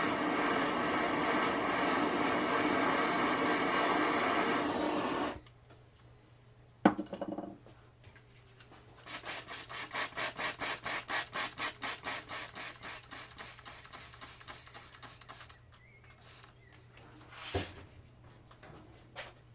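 A steady rushing roar that cuts off suddenly about five seconds in, then a sharp click, then a hand tool scraping back and forth in fast, even strokes, about four a second, for several seconds.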